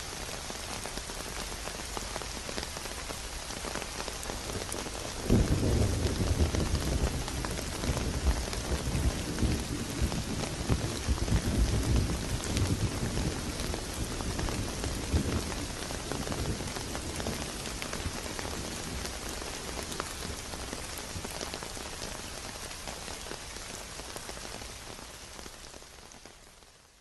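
Steady rain pattering on a surface. About five seconds in, a loud low rumble of thunder breaks in and rolls on for around ten seconds before easing off. The rain fades out near the end.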